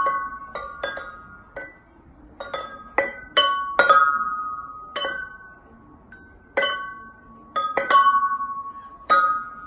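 Glass objects clinking against each other in about a dozen irregular strikes, each one ringing on with bright tones that fade over about a second.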